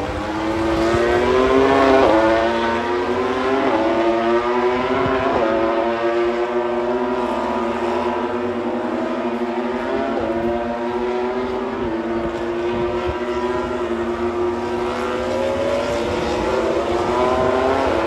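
A group of Moto3 racing motorcycles with 250 cc single-cylinder four-stroke engines, accelerating hard. Each engine's note climbs and then drops sharply at every upshift, and several bikes overlap.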